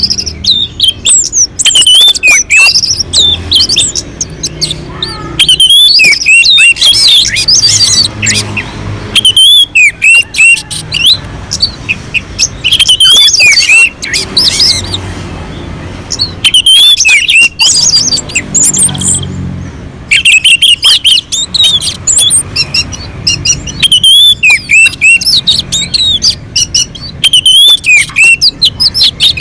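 Orange-headed thrush (anis merah) singing continuously: rapid, varied runs of loud whistles and chirps, broken by brief pauses every few seconds.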